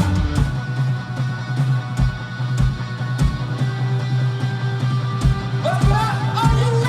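Garage punk band playing: a held low bass note with sparse drum hits and guitar, and a wavering high line that comes in near the end.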